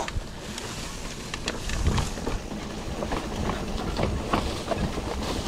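Mountain bike rattling and clattering over a rough, slippery dirt trail, with frequent irregular knocks and a low rumble from the tyres.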